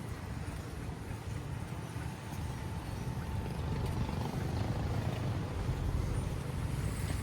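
A low engine rumble that grows gradually louder, as of a motor vehicle approaching.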